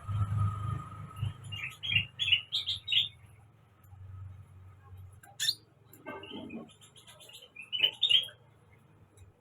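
Kolibri ninja sunbird chirping in quick runs of short high notes, with a sharp click about five seconds in and a low steady hum underneath.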